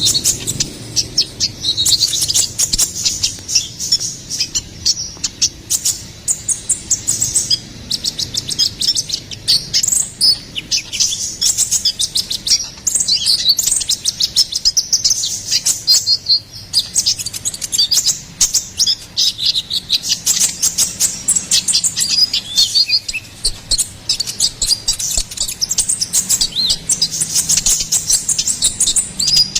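A sunbird sold as "konin kolibri ninja" singing a fast, continuous twittering song of high, rapid chirps and trills, with no pauses.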